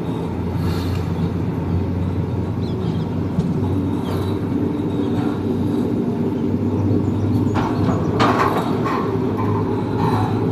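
Passenger train running on the rails, a steady low rumble with a few sharp knocks near the end.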